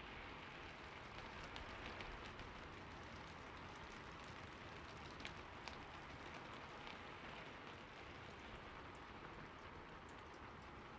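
Steady rain falling on a roof: an even, soft hiss with scattered sharper taps of single drops, two of them standing out about halfway through.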